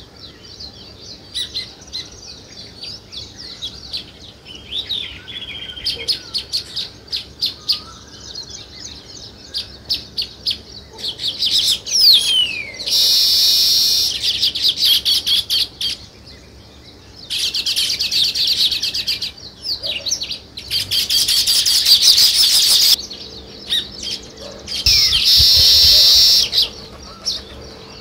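Small songbirds chirping: scattered short high chirps, then four long bursts of fast chattering notes, each lasting about two seconds, in the second half.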